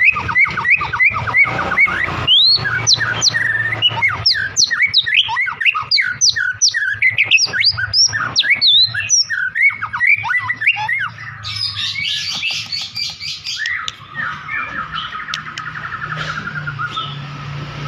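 White-rumped shama singing without pause: a fast string of loud, varied whistled notes sweeping up and down. About twelve seconds in it changes to a harsh buzzy chatter, then to a lower rattling trill over a steady low hum.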